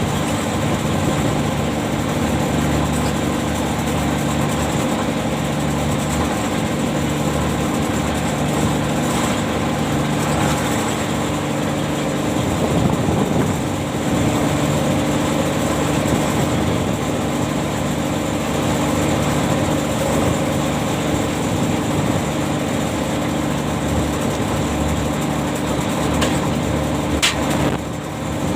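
Ship's machinery running with a steady, even hum, with one short sharp click near the end.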